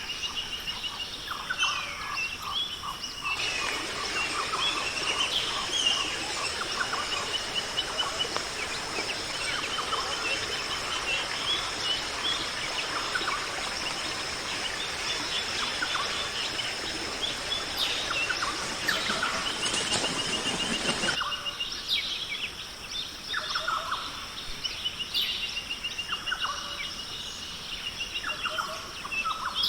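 Several birds calling, with repeated fast trills and scattered chirps over a steady high-pitched drone. A hiss comes in about three seconds in and stops sharply about two-thirds of the way through.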